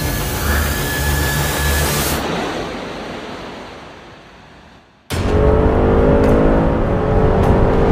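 A steady sound fades out over the first few seconds; then, about five seconds in, the Audi S4's turbocharged V6 cuts in abruptly and accelerates hard, its pitch rising steadily, with a few short sharp cracks.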